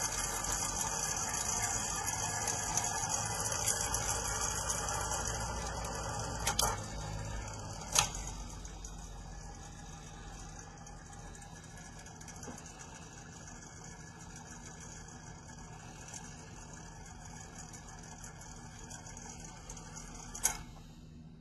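Comfort Zone electric fan running with a steady whoosh of moving air and a faint motor hum. Sharp clicks come about six and a half and eight seconds in, and again near the end; after the click at eight seconds the fan sound is quieter.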